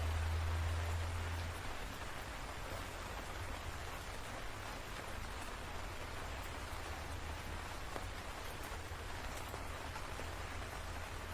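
Steady rain falling, an even hiss with faint scattered drop ticks. A low thunder rumble is there at the start and dies down about a second and a half in.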